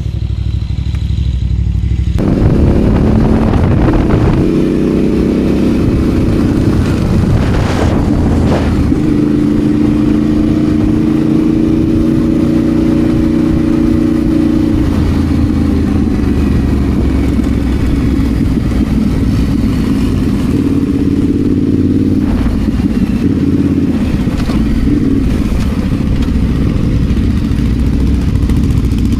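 Adventure motorcycle engine running under way, its note shifting up and down several times with gear changes and throttle.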